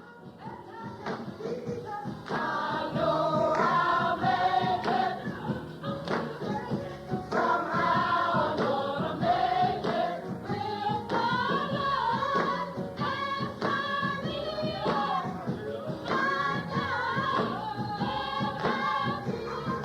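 A choir singing gospel music, with a beat of short knocks. It fades in over the first couple of seconds.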